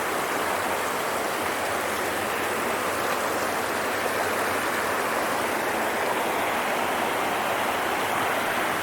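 Creek water running down a sliding rock cascade below a waterfall: a steady, even rush of water.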